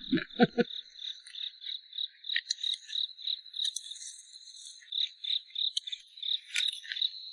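Outdoor insect chorus: a steady high trill with rapid, irregular chirps over it, and a few short low sounds in the first half-second.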